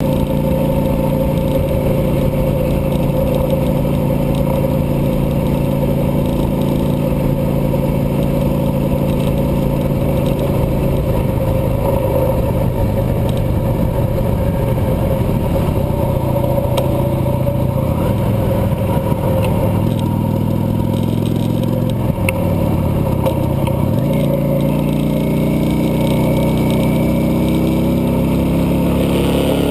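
Cruiser motorcycle engine running steadily under way. Its note shifts in pitch around halfway through and climbs again later on, as the bike changes speed.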